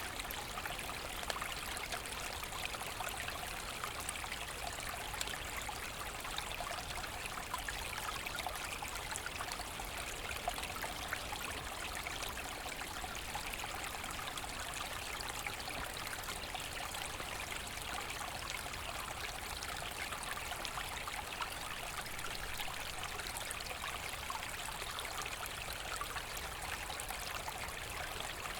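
Forest brook flowing over stones, a steady babbling and trickling of running water.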